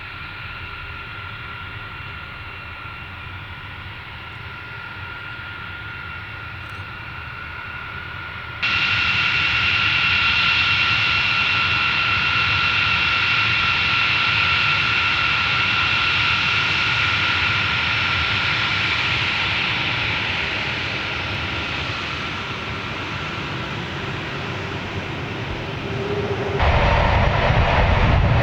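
Military jet engines running with a steady high-pitched turbine whine over a rumble. The sound steps abruptly louder about nine seconds in, and near the end changes abruptly to a heavier, deeper rumble.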